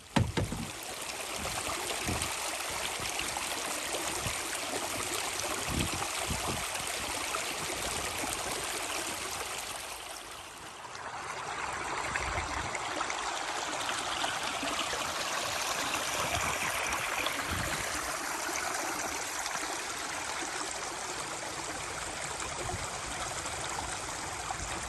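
Valley stream flowing: a steady rush of running water that dips briefly about ten seconds in, then carries on.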